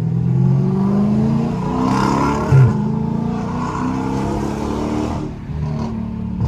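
Straight-piped 392 (6.4-litre) HEMI V8 of a Dodge Charger Scat Pack at wide-open throttle, its exhaust note climbing in pitch as the car accelerates. There is a short thump about two and a half seconds in, then the revs climb again before easing off near the end.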